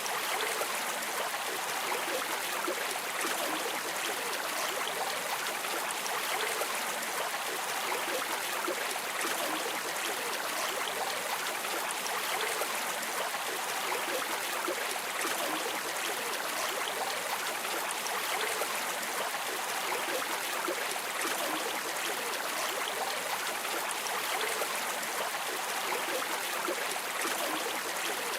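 A river or stream flowing steadily over stones, with a constant rushing and fine splashing that does not change.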